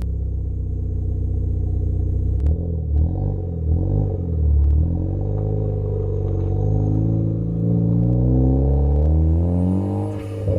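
Ford Focus ST engine heard through mixed intake and exhaust microphones, running evenly with a few sharp pops from its crackle tune. Its revs then rise steadily for about five seconds and fall away suddenly near the end.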